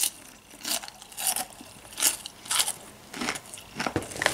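Someone chewing a mouthful of candy-coated cotton candy popcorn, giving crunchy bites in a steady rhythm of nearly two a second.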